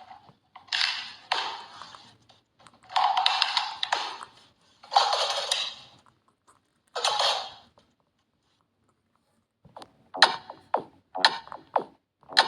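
A pet parrot gives four harsh, raspy calls. From about ten seconds in, a clicky electronic music track starts.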